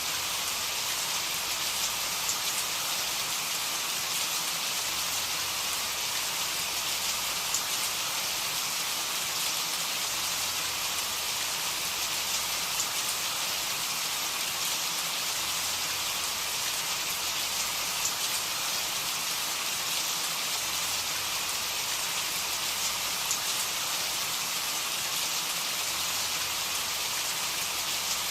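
Steady rainfall: an even hiss of rain with fine drop patter, unchanging throughout.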